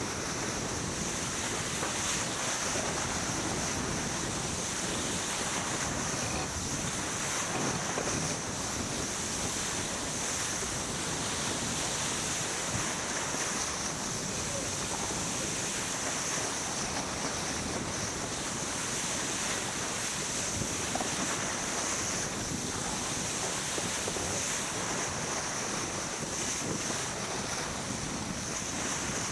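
Steady rush of wind and water around a sailboat under way in a race, with wind buffeting the microphone and a constant high hiss.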